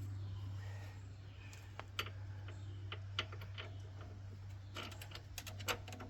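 Scattered light clicks and taps of hand tools and metal parts during front strut work, with a quicker run of clicks near the end, over a steady low hum.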